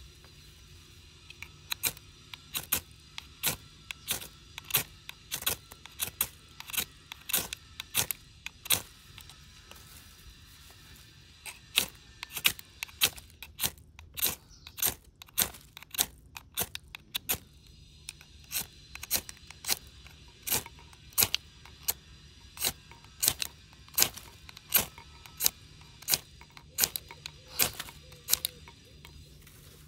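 Fire starter being struck over and over to throw sparks onto tinder, about two sharp scraping strikes a second with a short pause about ten seconds in; the tinder is not catching, which they put down to it not being dry enough.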